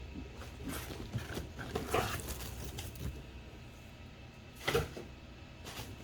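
A cardboard box and its packing being opened and handled by hand: scattered rustles and light knocks, with a louder rustle just before the five-second mark.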